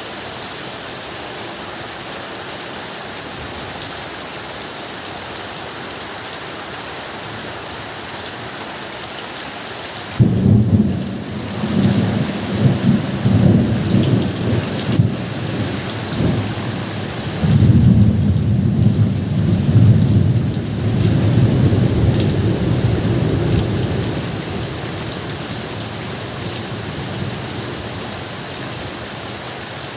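Steady rain hissing, with a loud rumble of thunder that breaks in suddenly about a third of the way through, swells several times and dies away over some fourteen seconds, leaving the rain alone.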